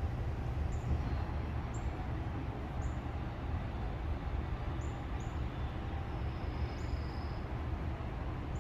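Short, high bird chirps every second or so, with one longer high note near the end, over a steady low rumble.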